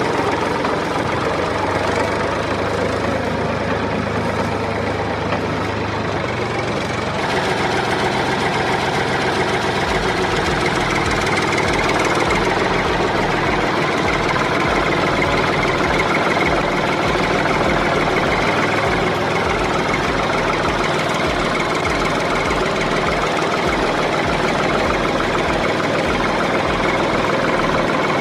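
Engine running steadily with a knocking chug. A regular low beat sets in about ten seconds in.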